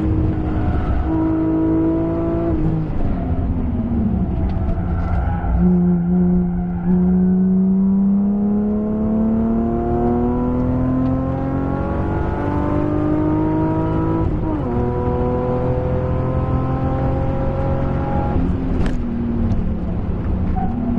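BMW M3 E36's 3.2-litre straight-six engine under hard driving: its pitch drops about three seconds in, then climbs slowly and steadily under load for around twelve seconds, and drops again near the end with a shift.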